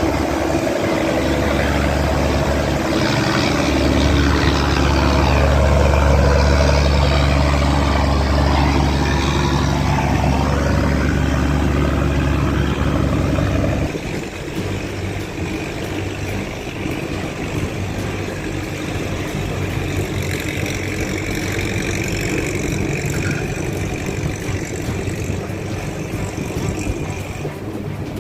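Boat engine running steadily, with a strong low hum; the loud drone drops away suddenly about halfway through, leaving a quieter engine sound.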